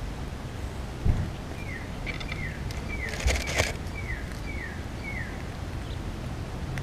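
A bird calls a run of about seven short whistled notes, each sliding downward, about two a second, over a steady low rumble. There is a soft thud about a second in and a brief crackling rustle near the middle.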